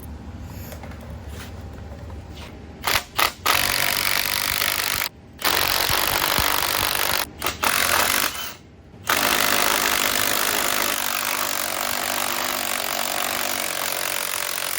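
A loud power tool running in several short bursts, then held on steadily for about the last six seconds.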